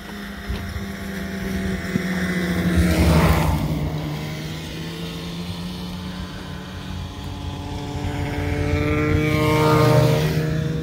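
Two motor vehicles driving past one after the other. Each engine grows louder to a peak and falls away, its pitch dropping as it passes: the first about three seconds in, the second near the end.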